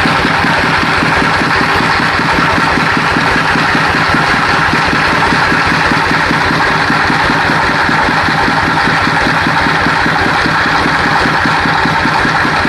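An engine running steadily at an even speed, with a fast regular pulse of firing and no change in pitch.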